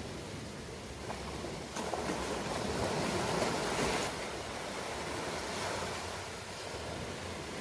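Ocean surf washing onto a shore, a steady hiss with one wave breaking about two seconds in, swelling louder for a couple of seconds and then easing back.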